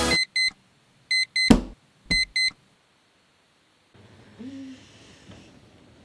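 Digital alarm clock beeping: three pairs of short, high electronic beeps about a second apart, with a single sharp thump about a second and a half in. After the third pair the beeping stops and only faint room tone is left.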